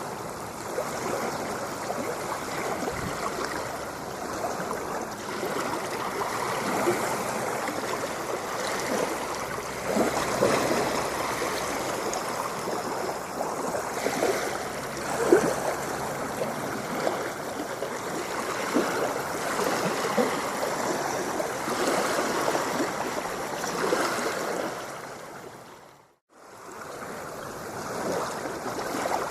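Continuous water ambience: steady rushing and splashing of moving water with small irregular splashes. About 25 seconds in it fades out to silence and fades back up over the next two seconds.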